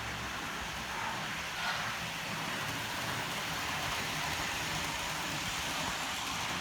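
Model train running steadily on the layout's track: a continuous motor hum with wheel and rail noise.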